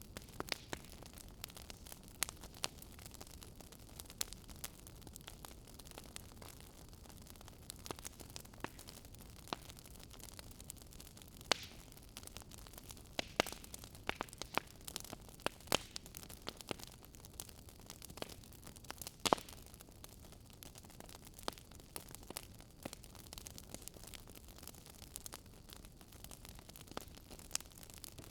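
Wood fire crackling: irregular sharp pops and snaps from burning logs over a soft steady hiss, one pop standing out about two-thirds of the way through.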